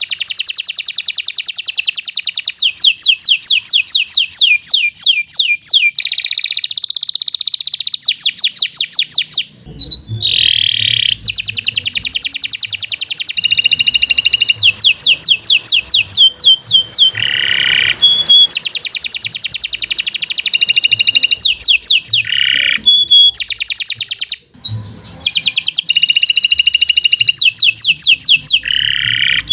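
Domestic canary singing a long, unbroken song of rapid trills and rolls. The song breaks only briefly, about ten seconds in and again near twenty-five seconds.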